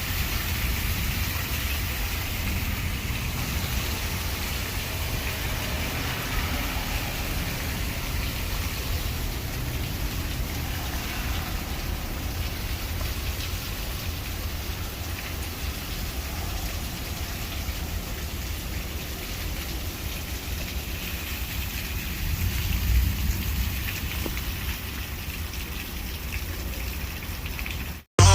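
Steady rain falling in a thunderstorm as it picks back up again, with a low rumble underneath that swells briefly near the end.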